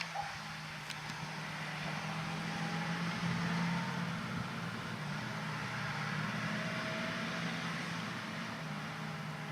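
Diesel engine of a John Deere 8000R-series tractor running steadily under load while it pulls a field cultivator, a low hum over a wide rushing noise. It swells slightly about three to four seconds in, then eases back.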